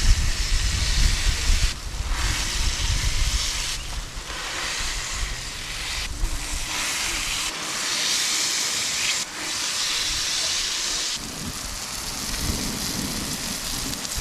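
Burgers sizzling on a Blackstone flat-top griddle, a steady loud hiss that shifts abruptly in level every couple of seconds. Wind buffets the microphone with a low rumble through the first few seconds.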